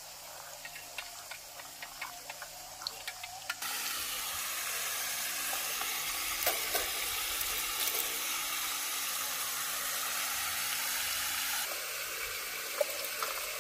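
Food frying in a pan, with light clicks and scrapes of a utensil. About three and a half seconds in, a louder, steady sizzle starts suddenly and holds, easing slightly near the end.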